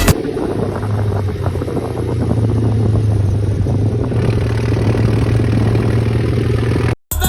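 Tractor diesel engine running steadily with a deep, rough hum, cutting off abruptly near the end.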